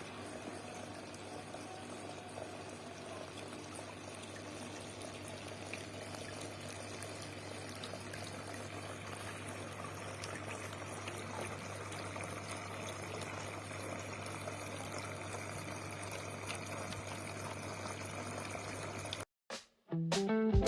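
Small handmade tabletop waterfall fountain running: water trickling and splashing steadily over a low, even hum. The sound cuts off about a second before the end.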